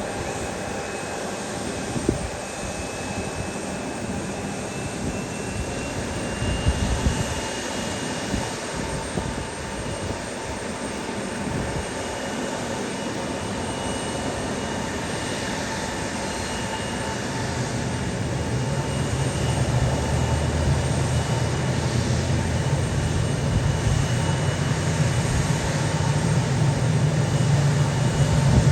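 Aircraft engines running: a steady whine over a rushing noise, with a low rumble that builds and grows louder over the last third.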